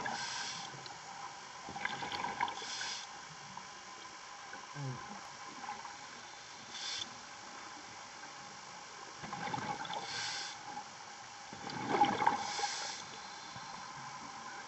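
Diver breathing through a scuba regulator: a hissing breath or bubbling every few seconds, five times, over a steady background hiss.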